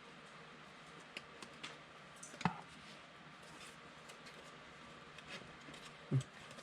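Faint scattered clicks and light handling noises from trading cards and their packs being sorted by hand, with one sharper click about two and a half seconds in and a brief low sound near the end.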